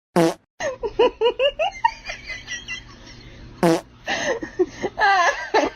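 A person laughing in quick repeated bursts, with two short loud blurting noises, one just after the start and one a little under four seconds in.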